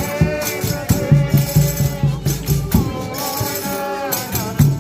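Folia de Reis music: voices singing long, wavering held notes over a shaken rattle and tambourine beat.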